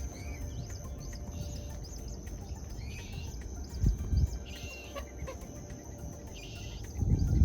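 A bird giving short repeated chirps every second or so over outdoor wetland ambience, with a steady high whine and a low rumble beneath. There are two louder low bumps, about four seconds in and near the end.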